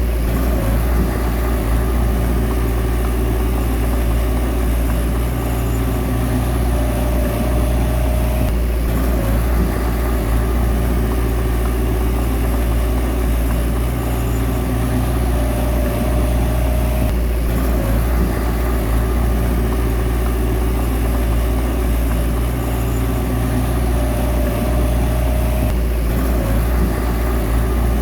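Bulldozer's diesel engine running steadily while pushing soil. A higher tone rises over it for a second or two about every eight to nine seconds, each time followed by a brief change in the sound.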